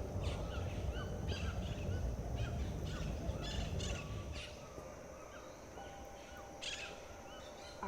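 Birds calling in short chirps and squawks, several a second at times, over a low rumble that fades out about halfway through, with a faint steady high tone underneath.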